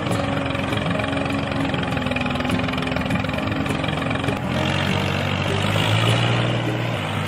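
Engine sound of a mini tractor running steadily as it pulls a cultivator through sand. Its pitch deepens about four and a half seconds in.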